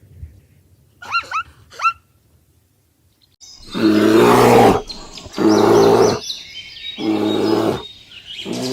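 Three short honking calls, then, after a pause, four loud, drawn-out calls from a large mammal in a row, each about a second long.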